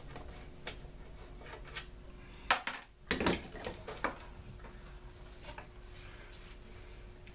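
Scattered clicks and knocks of a hand tool and loose parts being handled while a bolt is worked out of a leaf blower's housing, with a louder clatter about two and a half to three seconds in.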